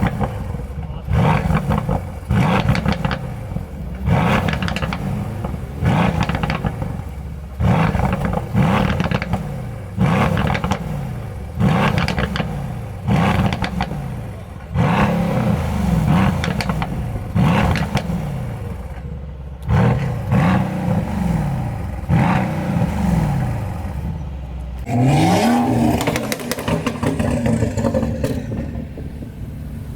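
Car engine revved in repeated sharp throttle blips, each rising quickly and falling back, about every one and a half to two seconds, with a longer rising rev near the end.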